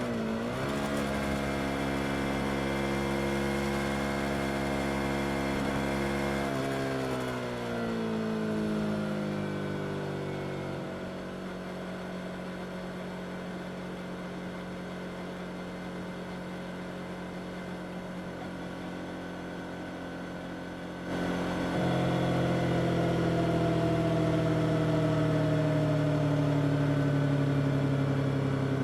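Yamaha R25's parallel-twin engine under way. Its note holds steady, drops in pitch as it slows down about 7 seconds in, and runs quieter for about ten seconds. Just past 20 seconds it turns abruptly louder again, with the pitch slowly falling.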